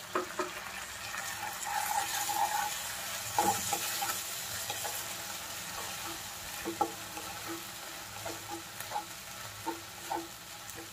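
Onion, garlic and ginger paste sizzling in oil in a nonstick kadai while a wooden spatula stirs and scrapes it, with frequent light knocks of the spatula on the pan. The sizzle is a little stronger about two to four seconds in.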